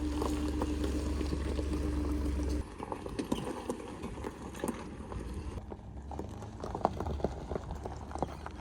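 A low, steady mechanical hum that cuts off suddenly about two and a half seconds in, followed by scattered light clicks and knocks.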